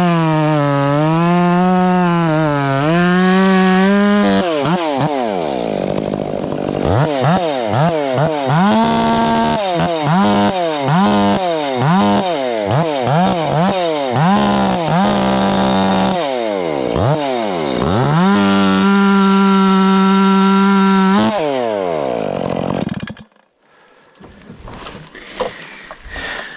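Chainsaw cutting knots off a big log. It runs steadily under load, then revs up and down over and over between cuts, holds another steady cut, and winds down and shuts off near the end.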